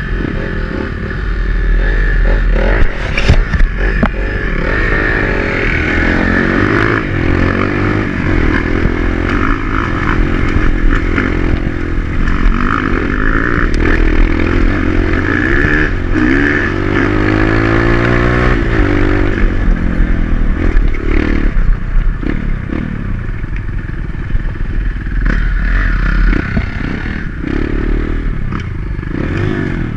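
Dirt bike's single-cylinder engine running under way off-road, its pitch rising as it revs up about two-thirds of the way through, with scattered knocks and clattering from the bike over rough ground.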